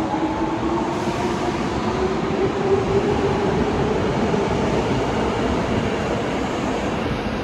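Osaka Metro Tanimachi Line subway train running at the platform with a steady rumble, its motor whine rising slowly in pitch as it picks up speed.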